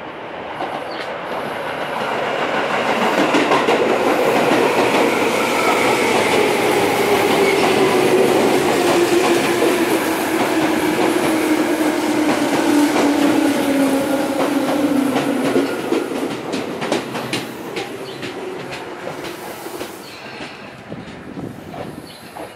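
A Tobu Railway electric commuter train pulls into the station, its motors whining in a tone that falls slowly as it brakes. The train grows louder over the first few seconds, then fades, and a run of wheel clicks over rail joints follows near the end.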